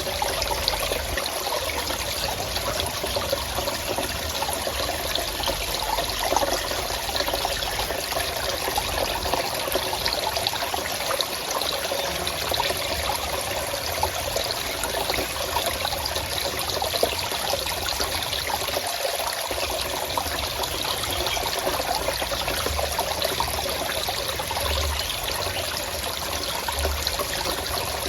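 Forest stream running steadily, a continuous trickling, gurgling rush of water.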